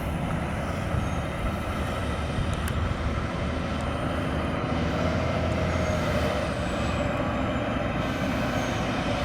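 Fire department ladder truck's engine running steadily with a low rumble as the truck moves off on a call.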